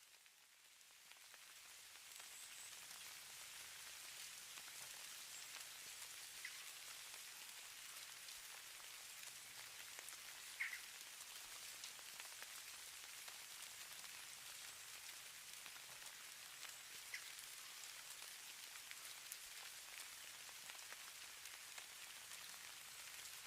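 Falling snow: a faint, even hiss with fine pattering ticks, rising back up over the first two seconds after a brief dip. A few slightly sharper clicks stand out, the clearest about ten seconds in.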